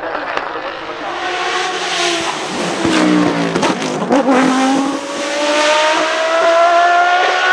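Judd GV4 4.0-litre V10 of a Dallara SP1 Le Mans prototype running hard at high revs; the pitch sags and wavers about three seconds in, then climbs steadily through the second half as the car accelerates.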